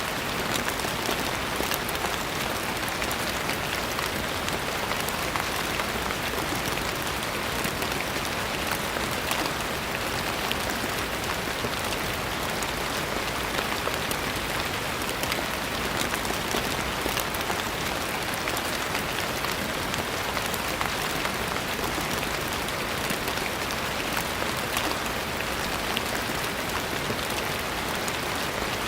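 Steady rain falling on a surface, an even patter of many small drop impacts with no change in intensity.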